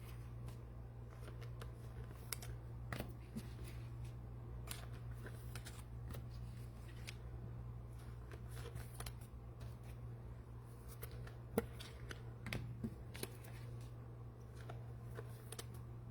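Trading cards and pack wrappers being handled close up: scattered soft clicks, snaps and rustles, a few a little louder near the middle, over a steady low hum.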